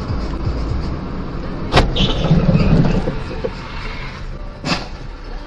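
Car running on the road with a steady low rumble, broken by two sharp knocks, one about two seconds in and one near the end.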